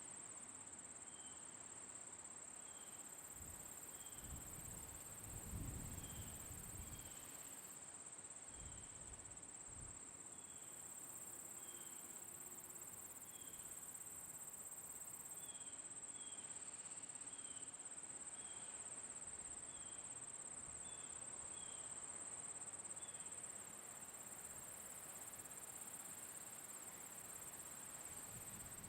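Crickets trilling in a steady, high, unbroken chorus, with short high chirps repeating about once a second over it. A brief low rumble comes in around five seconds in.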